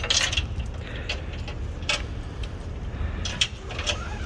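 Metal hooks and buckles of tie-down straps clinking and rattling in short, irregular bursts as the straps are handled, over a steady low rumble.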